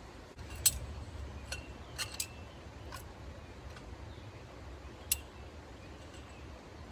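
A handful of sharp, irregular clicks and taps, the loudest two near the start and about five seconds in, over a steady low rumble.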